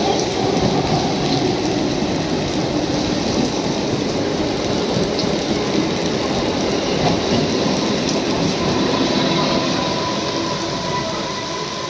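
Indian Railways electric local train running past at speed, a steady rumble of wheels on the rails mixed with the hiss of heavy rain. The sound eases off slightly near the end.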